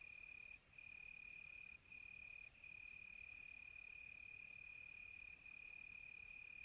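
Crickets trilling in one faint, steady high-pitched chirr that breaks off briefly a few times, over a faint high hiss.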